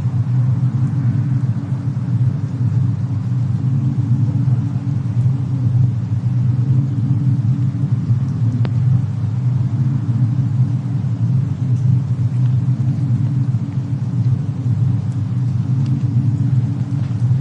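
Fireplace and snowstorm ambience: a steady low rumble with a few faint fire crackles, the clearest about halfway through.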